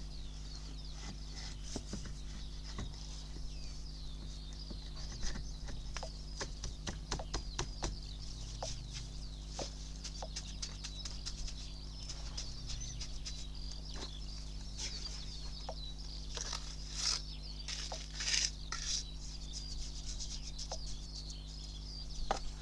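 Birds chirping, over scattered clicks and a steady low hum.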